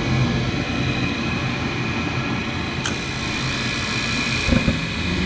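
Rheem gas furnace running with a steady motor hum and whine. About three seconds in comes a sharp click and a short hiss, then a low thump about four and a half seconds in as the burners light.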